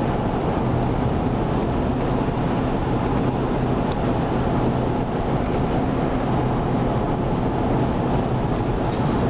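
Car driving at a steady speed: even road and engine noise with a low steady hum.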